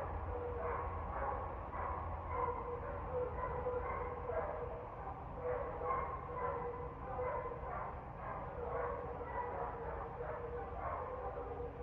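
Dogs barking over and over in quick, continuous barks, over a low steady hum.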